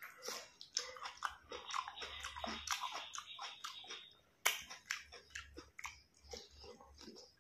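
A person chewing and biting vegetables, with repeated crisp crunches and wet mouth sounds. In the second half comes a bite into a boiled broccoli floret.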